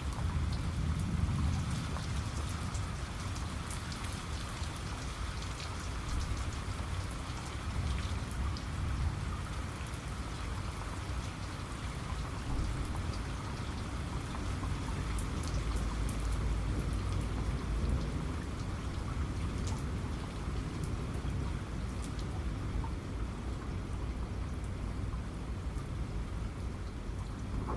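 Steady rain falling, with many fine drop ticks over it and a low rumble underneath.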